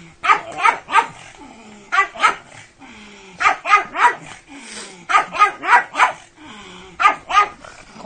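Pug barking excitedly in quick runs of two to five short, sharp barks, with pauses of about a second between the runs.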